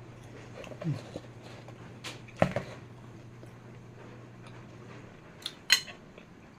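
Eating at a plate: a few sharp clicks and clinks of cutlery against the dish, the loudest about two and a half seconds in and again near the end, with a short murmur from the eater about a second in.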